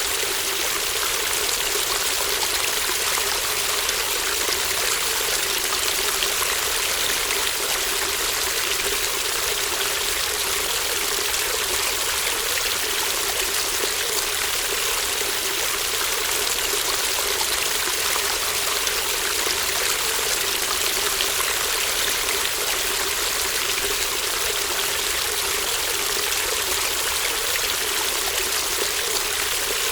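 A shallow stream babbling and trickling over stones, a steady rushing with fine splashing detail, recorded in mid-side stereo.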